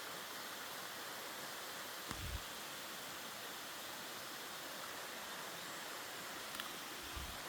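Mountain stream water rushing steadily, an even hiss, with two dull low thumps, one about two seconds in and one near the end.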